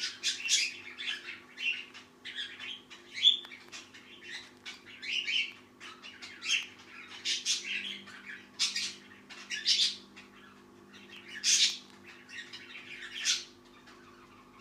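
A pet bird making sleepy crackles: short, irregular crackling chirps a few times a second, with uneven gaps between them.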